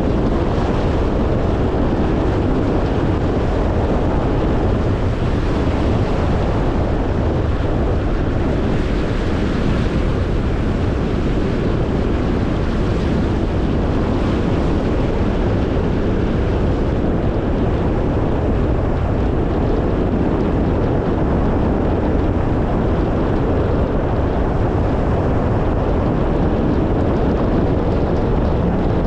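Steady road noise of a car driving: tyre and engine noise with a rushing of wind, even and unchanging throughout.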